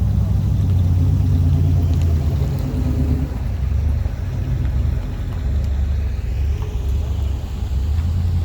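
Car engines rumbling at low speed as show cars roll past, with one engine's pitched note standing out for the first three seconds or so.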